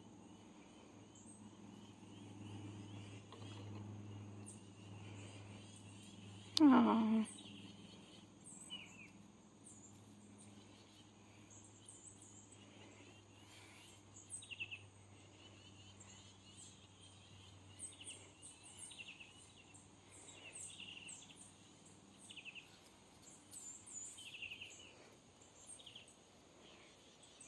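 Faint, scattered chirps of small birds, more frequent in the second half, over a low steady hum. A woman's brief "oh" is the loudest sound, about seven seconds in.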